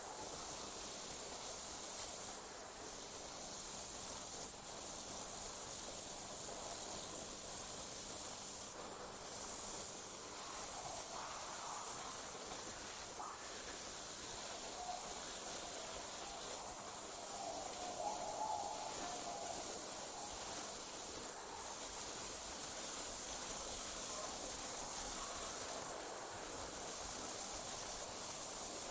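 Night insects, crickets, trilling in one continuous high-pitched drone that breaks off briefly every few seconds, with faint lower calls around the middle.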